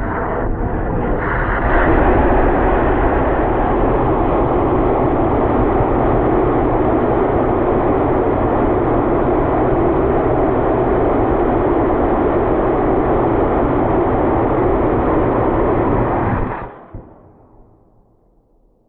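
75mm L832 solid rocket motor, burning an ammonium perchlorate, strontium nitrate and magnesium propellant, firing on a static test stand with a loud, steady rushing noise. It cuts off suddenly near the end as the motor burns out, leaving a fading tail.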